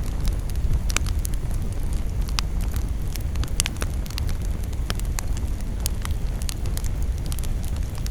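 Campfire burning: wood crackling, with many sharp irregular pops and snaps over a low rumble of the flames.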